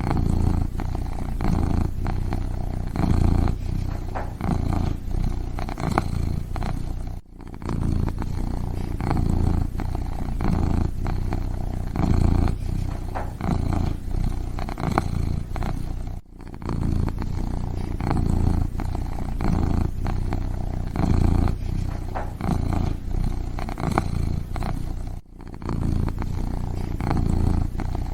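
Kitten purring steadily in a continuous low pulsing rumble, broken by a brief gap about every nine seconds.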